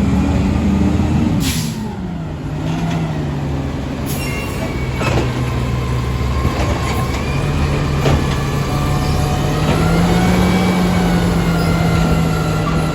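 Garbage truck's diesel engine running, its revs dropping about a second and a half in as a short hiss of air brakes goes off, then idling and rising a little again near the end. A few sharp knocks and clanks sound over it.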